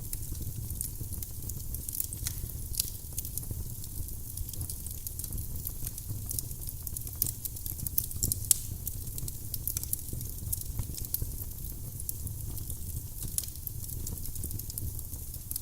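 Firewood burning in a fireplace: steady crackling with many small irregular pops over a low rumble, one pop standing out about halfway through.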